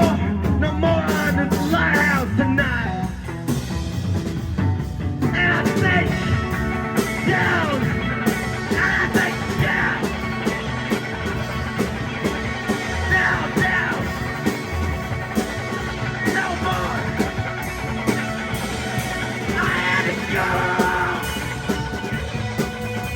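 Rock band playing live with drums, bass and electric guitar in a passage with no words. A lead line bends up and down in pitch over the steady band.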